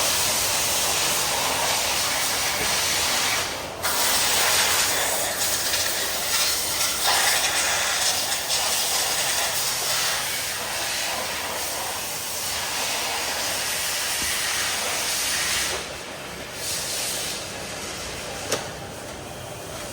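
Loud, steady hiss of rushing air or spray. It breaks off briefly about four seconds in and again near sixteen seconds, and a single sharp click comes near the end.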